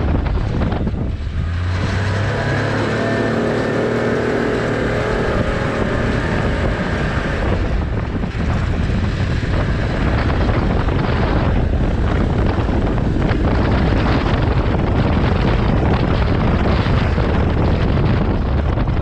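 Heavy wind noise on the microphone over a running engine, whose steady pitched hum is clearest from about two to seven seconds in.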